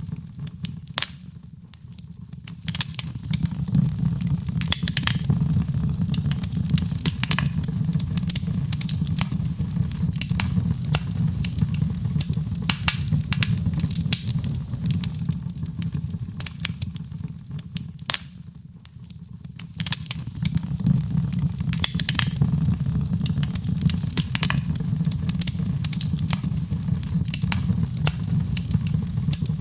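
Wood fire crackling, with frequent sharp pops over a steady low rumble of burning. The sound drops away briefly twice, about two seconds in and again near the middle.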